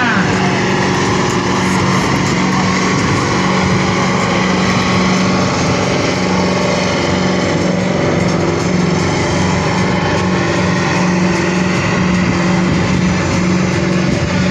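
Pulling tractor's engine running loud and steady at high revs, its pitch holding nearly level throughout.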